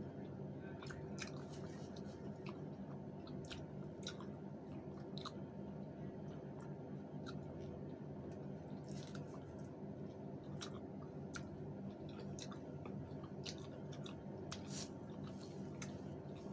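Close-up chewing and mouth sounds of people eating by hand, with many short sharp smacks and clicks scattered throughout, over a steady low hum.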